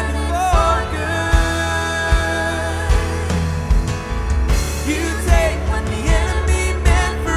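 Live worship band playing a pop-rock song: steady drum beat and bass under synth and piano, with held sung notes.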